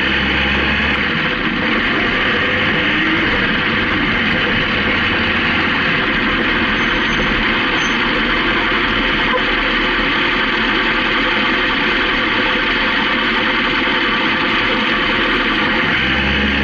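Steady rush of wind over the microphone on a moving Honda CB750K motorcycle, its air-cooled inline-four engine running underneath at a constant pace.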